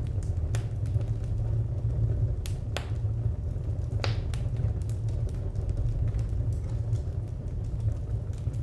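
Wood fire crackling: irregular sharp pops and snaps, a few louder ones about two and a half to four seconds in, over a steady low rumble of burning.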